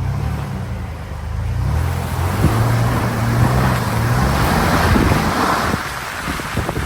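Motor vehicle engine running as it drives along a snowy road. A rushing hiss swells in the middle and fades near the end.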